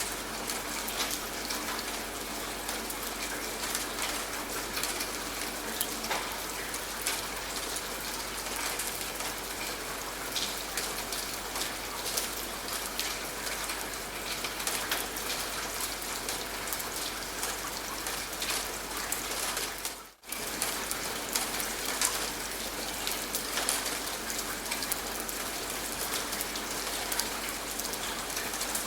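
Steady rain with many raindrops pattering on a surface. About twenty seconds in, the sound drops out for a split second and then carries on.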